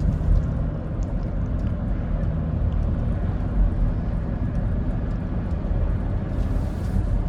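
Steady low rumble of engine and road noise inside a Dodge Grand Caravan's cabin while cruising in a top gear, as the van shudders. The shudder is traced to a misfire on cylinder 6 of its six-cylinder engine.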